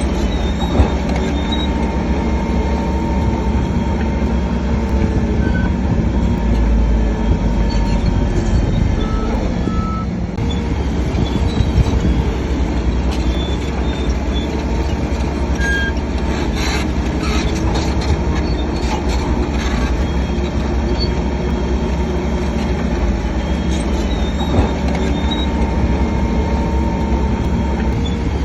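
Crawler bulldozer working: diesel engine running under load, with steel tracks clanking and squealing. A burst of higher squeals and scrapes comes about halfway through.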